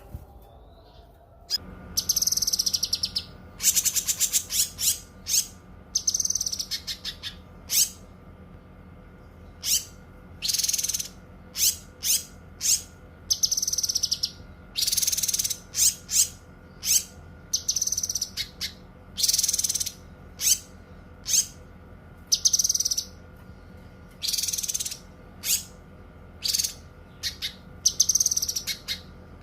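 Cucak kinoi singing: a long run of short, high chirping phrases, each well under a second, coming about once a second. The song starts about a second and a half in, over a steady low electrical hum.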